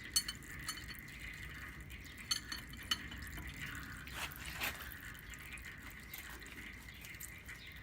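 Hand wrench clinking on the power steering line fittings of a GM 4104 bus: a few sharp light metallic clicks, then a short scraping swish a little after four seconds in.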